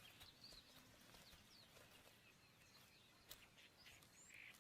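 Near silence: faint outdoor ambience with a few scattered faint bird chirps and one faint click a little past the middle.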